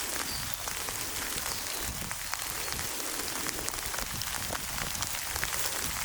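Steady rainfall, with many small irregular drop taps over a constant hiss.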